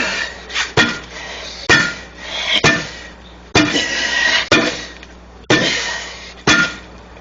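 Steel tire tools clanking and scraping against a truck wheel's steel rim as a stiff tire is pried off by hand, with a sharp ringing knock about once a second.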